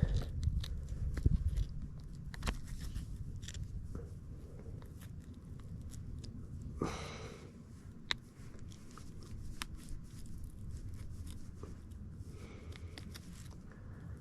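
Scattered small clicks and rustles of hands working a tiny jig hook out of a freshly caught crappie, a struggle to get the fish unhooked. A brief breathy rush about seven seconds in, over a steady low rumble.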